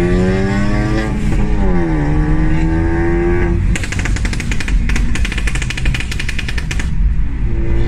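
A modified car's engine revving up, easing off briefly, then climbing again. About halfway through it gives way to a fast, rapid string of sharp crackles lasting about three seconds, typical of exhaust pops and bangs on a modified car, before the engine note returns near the end.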